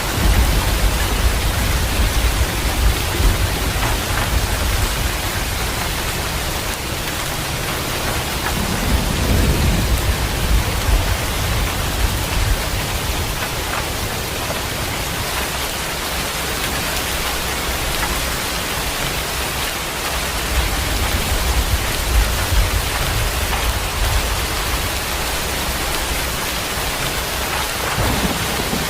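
Steady heavy rain with rolling thunder. Low rumbles come in right at the start and again about two-thirds of the way through.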